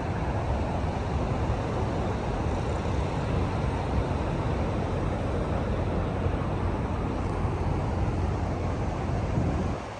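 A car engine running steadily through a loud exhaust, a dense, deep rumble that eases off just before the end.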